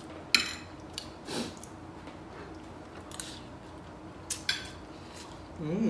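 A person eating chicken biryani: a handful of short, soft eating noises spaced about a second apart over quiet room tone.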